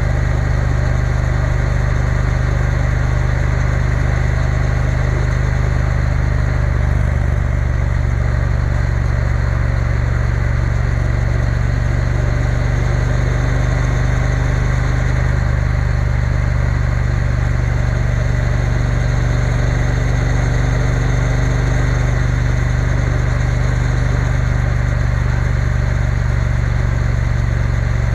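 Triumph Bonneville T120 parallel-twin motorcycle engine running steadily while riding along at an even pace, with a constant rush of wind noise.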